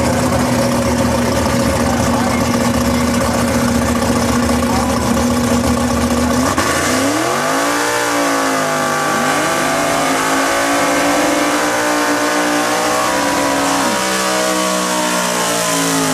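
Holden drag cars' engines held at steady high revs, then launching at full throttle: the engine note climbs sharply about six seconds in and steps through gear changes as the cars accelerate down the strip.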